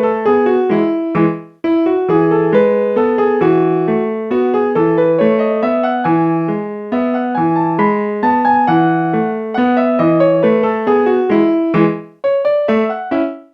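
Piano playing a steady melody over a repeating low accompaniment, stopping briefly twice, about a second and a half in and near the end.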